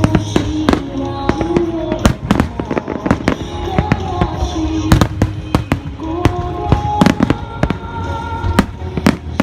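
Large aerial fireworks going off in quick succession, sharp bangs about two or three a second, over music with long held notes played over loudspeakers.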